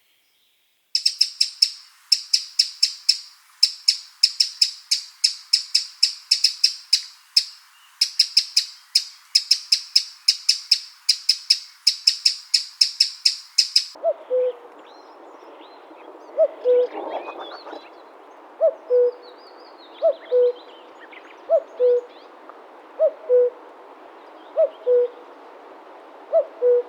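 Eurasian wren singing: loud, fast trilling bursts of high ticking notes, with a short break in the middle. About halfway through it gives way to a common cuckoo calling its two-note falling "cuck-oo" again and again, about every second and a half, over a steady hiss.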